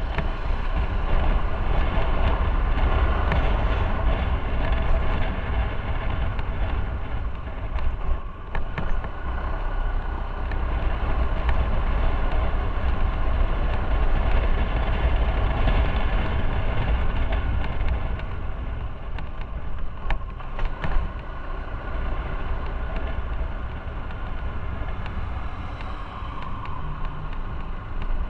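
Motorcycle on the move: its engine running under heavy wind rumble on the microphone and road noise. The sound holds steady, with a brief dip and a few short clicks about eight seconds in and again around twenty seconds.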